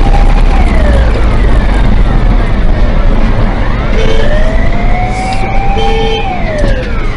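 Emergency vehicle siren wailing, its pitch slowly rising and falling, over a heavy low rumble of traffic. Two short beeps sound about four and six seconds in.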